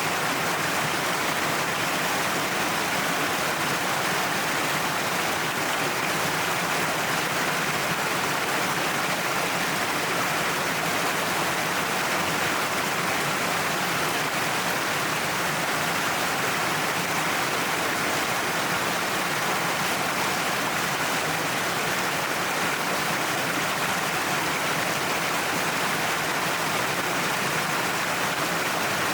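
Waterfall pouring down a cliff face: a steady, even rush of falling water with no change.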